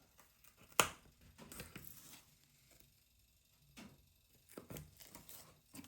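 Thin balsa wood being cut by hand: a sharp snap about a second in, then a few short, faint cutting strokes spread through the rest.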